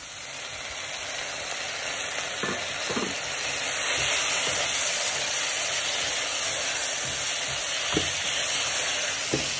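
Tamarind water poured into a hot wok of sautéed spring onions, sizzling and getting louder over the first few seconds, while a wooden spatula stirs the mixture and knocks against the pan a few times.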